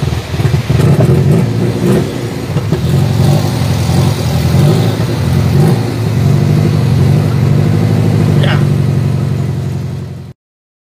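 Car engine running at low speed in a traffic jam, heard from inside the cabin as a steady low hum. The sound cuts off abruptly near the end.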